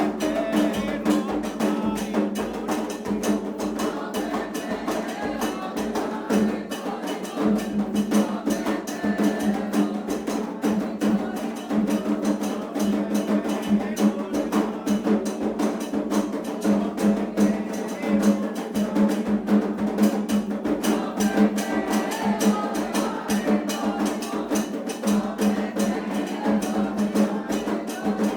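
Candomblé-style percussion music: hand drums beaten in a fast, dense rhythm with sharp bell or wood strokes, and voices singing over them.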